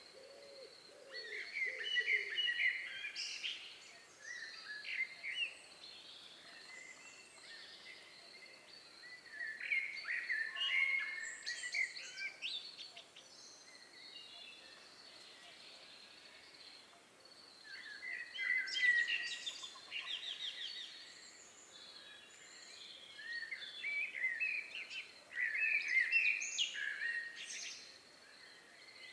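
Birds singing in several bursts of high chirps and trills, a few seconds each, with quieter gaps between; a faint steady high tone runs underneath.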